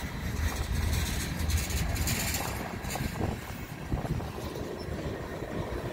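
Loaded oil tank cars of a freight train rolling past: a steady low rumble of steel wheels on the rails, with a brief rise in higher-pitched wheel noise about two seconds in.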